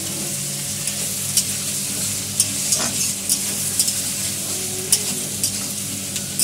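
Chopped onions and tomatoes sizzling in hot mustard oil in a large karahi as the masala is stirred, a steady hiss broken by scattered short clicks.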